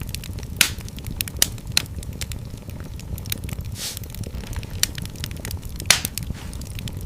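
Wood fire in a fireplace crackling: a steady low rumble of flames under dense small snaps, with two louder pops, one about half a second in and one near six seconds, and a brief hiss around four seconds.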